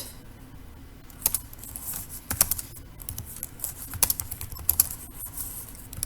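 Typing on a computer keyboard: irregular keystroke clicks at an uneven pace.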